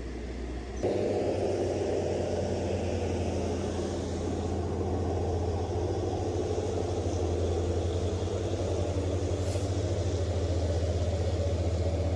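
A vehicle engine running steadily with a low, even hum, coming in abruptly about a second in.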